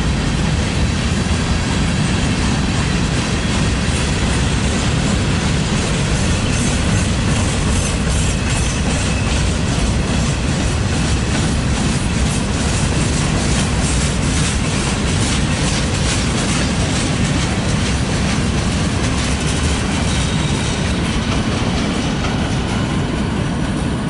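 Freight train of covered hoppers and tank cars rolling past close by: steady wheel-on-rail noise with rhythmic clicking over the rail joints, easing near the end as the last car clears.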